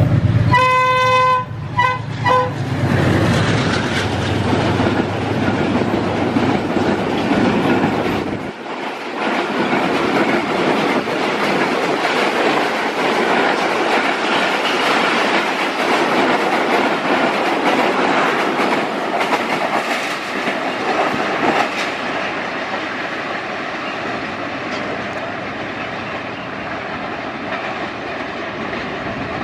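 A diesel passenger train passing at speed. The locomotive sounds its horn with one blast and two quick short toots, and its engine rumbles past. The coaches then rush by with a continuous clatter of wheels over the rail joints, fading slowly as the train draws away.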